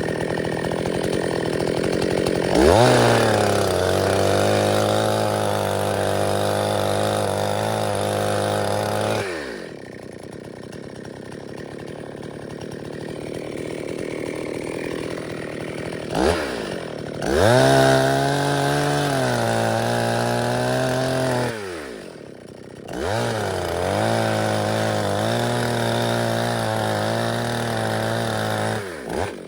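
Two-stroke chainsaw revved up and held at high speed three times, its pitch wavering under load as when cutting through wood. It drops back to a lower idle between the runs.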